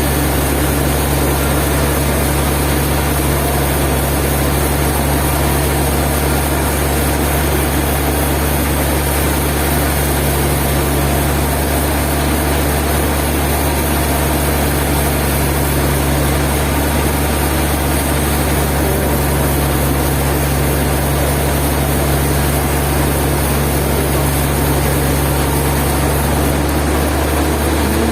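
Sawmill machinery running steadily: a heavy engine or motor drone with a dense hiss over it, changing slightly near the end.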